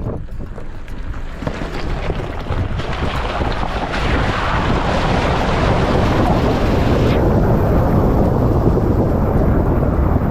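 Toyota RAV4 driving into a river crossing: water rushing and splashing against the vehicle over a low engine rumble, building to a steady loud wash about four seconds in.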